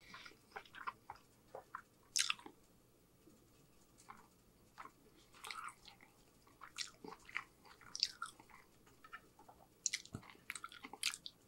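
Close-miked chewing with mouth closed: soft, irregular wet clicks and smacks of eating, with a quieter stretch a few seconds in.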